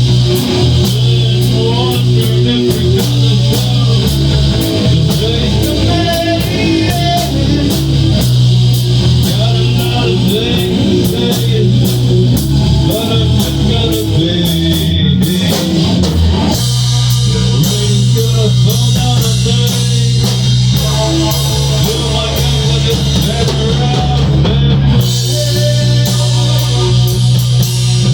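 Rock band playing an instrumental passage between sung lines: guitar lines over a steady bass line and drum kit.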